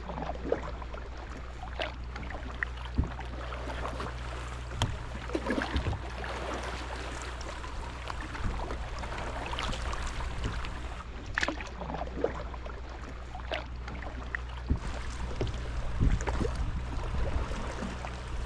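Canoe paddling: the paddle dips and splashes, and water drips and washes against the hull at irregular intervals, over a steady low rumble.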